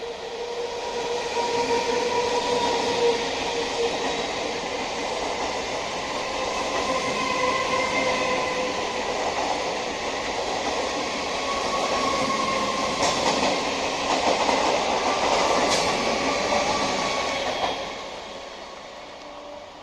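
Electric suburban local train (EMU) running on the rails: a loud, steady rumble with faint whining tones and two sharp clicks in the second half. The noise drops off sharply near the end.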